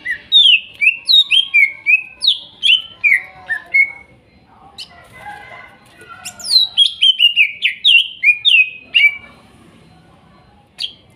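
Green leafbird (cucak ijo) singing: a series of clear whistled notes, each sliding down in pitch, about two a second. The song breaks off for about two seconds in the middle, then carries on.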